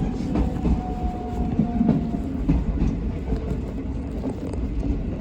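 JR West 207 series electric train running on the rails: a steady low rumble of wheels with the clickety-clack of rail joints. Faint thin steady tones sit over it, the kind the Toshiba GTO-VVVF traction equipment gives off.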